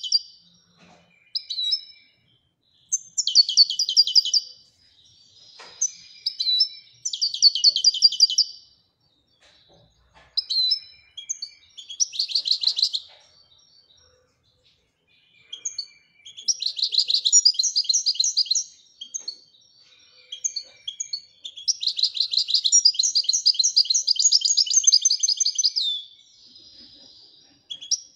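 European goldfinch (Moroccan goldfinch) singing in the Ouidani song style: phrases of fast, rapidly repeated twittering notes broken by short pauses, with longer unbroken runs in the second half.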